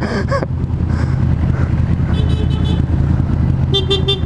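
Motorcycle engine idling with a steady low rumble, while a vehicle horn gives two short toots, about two seconds and four seconds in.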